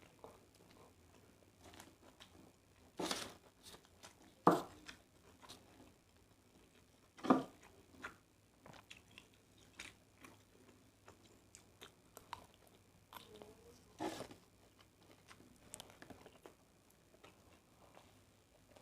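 Close-miked chewing of a mouthful of nasi goreng (fried rice with vegetables and chicken), with soft mouth clicks and a few louder crunches or clacks spaced several seconds apart.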